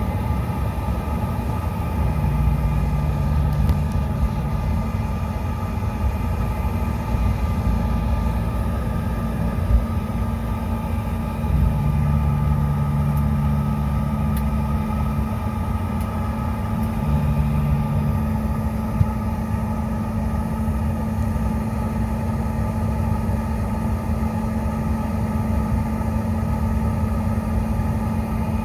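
CRJ900's rear-mounted General Electric CF34 turbofan engines running at idle, heard inside the cabin: a steady drone with a constant whine over a low rumble. A lower hum swells and fades three times.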